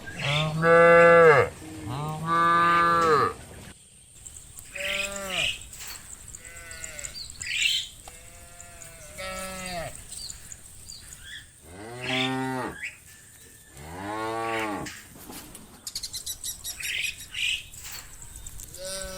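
Cattle in a herd mooing again and again, about nine calls of differing pitch, each lasting around a second. The two calls at the start are the loudest.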